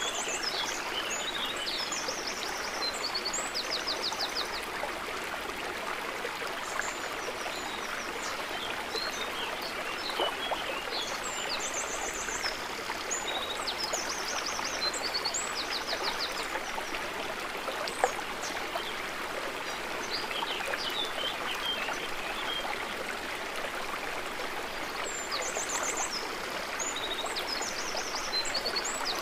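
Water trickling and gurgling steadily, with small birds chirping and giving short, quick trills now and then above it. A single sharp tick stands out about eighteen seconds in.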